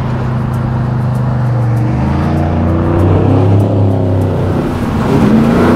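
Chevy Blazer's LSX V8 engine running under way, steady at first, then pulling harder with the revs rising about two seconds in and climbing again near the end.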